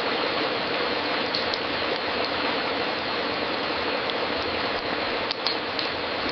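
Fireplace crackling: a steady hissing bed of fire noise with scattered sharp pops and snaps, a small cluster of pops about five seconds in.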